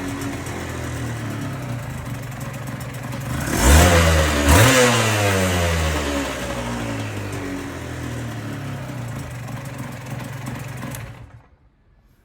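Aprilia RS250's two-stroke V-twin idling through M MAX expansion chambers, blipped twice in quick succession about four seconds in, each rev rising sharply and falling back to idle. The engine sound stops near the end.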